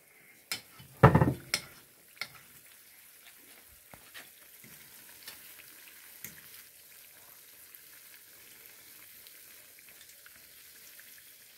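Battered Oreo cookies deep-frying in hot oil in a stainless steel pan, a steady sizzle. A few knocks and clinks of a fork against the bowl and pan come in the first two seconds, the loudest about a second in.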